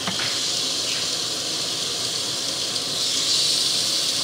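Olive-oiled salmon fillets sizzling on a hot, thick cast-iron grill pan: a steady hiss that grows a little louder about three seconds in.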